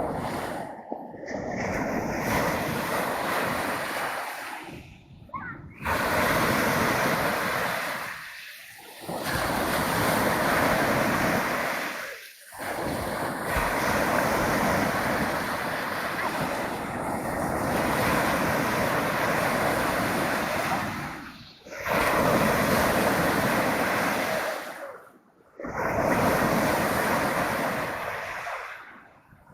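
Black Sea surf: waves breaking and washing up the shore, the hiss swelling in a surge every few seconds and dropping to short lulls between.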